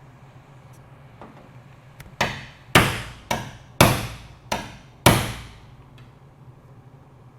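Six hammer blows on the car's sheet-metal body, roughly half a second apart in the middle of the stretch, each ringing briefly, as the damaged panel is worked back into shape under a pull.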